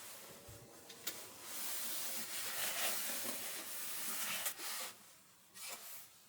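A click, then a steady hiss lasting about three seconds that stops abruptly, among the handling of dishes and utensils.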